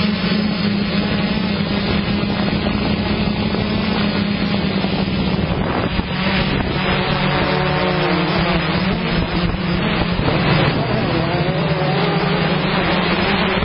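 Motocross bike engines running loudly, one holding a steady drone while revs rise and fall twice, about halfway through and again near the end.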